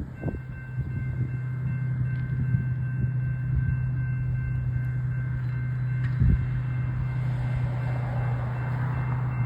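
Diesel-electric locomotive-hauled train going by: a steady low engine drone with a faint steady high whine above it and a few short knocks.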